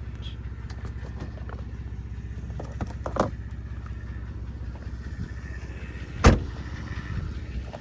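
Car engine idling with a steady low hum, with a small knock about three seconds in and a heavy thump about six seconds in.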